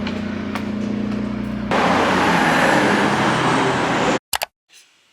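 A steady engine-like hum from what sounds like a motor vehicle. About two seconds in, a much louder rushing noise joins it, and both cut off suddenly, leaving near silence with a couple of faint clicks.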